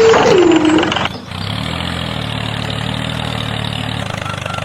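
Mini tractor engine idling steadily, with a short tone sliding down in pitch during the first second.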